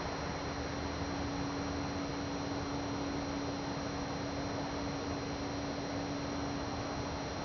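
A steady low hum over a constant hiss, fading out near the end.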